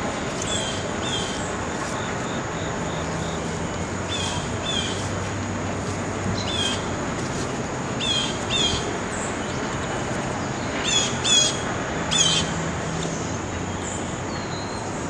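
Small bird calling with short high chirps, mostly in pairs, repeating every second or two and loudest about eleven to twelve seconds in, over steady outdoor background noise and a faint, high, steady whine.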